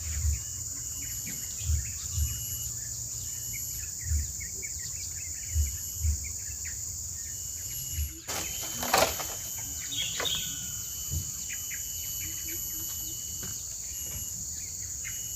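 A steady high insect chorus, with short bird chirps over it and scattered dull low thumps. There is one louder rustling knock about nine seconds in.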